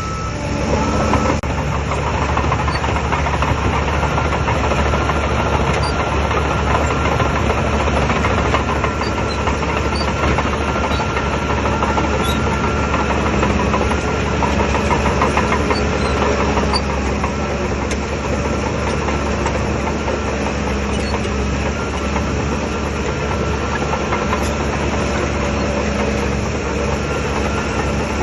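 Shantui DH17 bulldozer's diesel engine running steadily at working revs.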